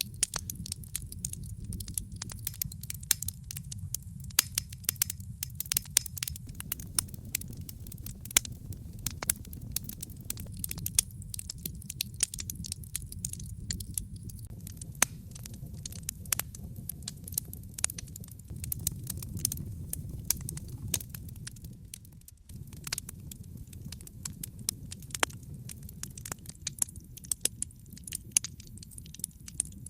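Wood fire in a fireplace crackling: frequent irregular sharp pops and snaps over a low, steady rumble of burning.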